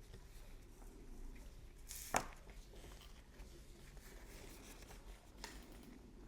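Faint brushing of an artist's brush working oil paint on canvas, with a sharp click about two seconds in and a smaller one near the end.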